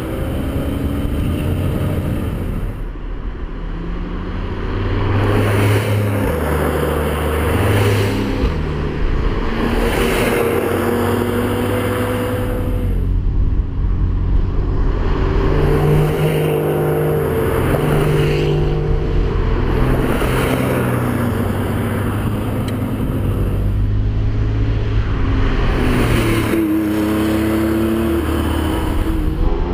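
Porsche 911 flat-six engines of a convoy pulling up a winding road. Their pitch climbs through the gears and drops back at each shift, and one engine revs up sharply near the end.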